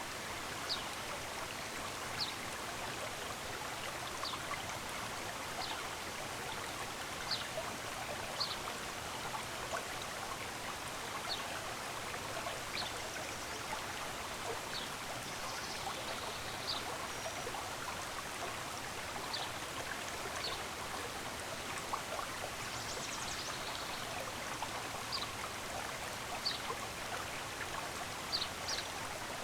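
Stream water running steadily, with a songbird repeating a short high chirp about once a second and twittering briefly twice along the way.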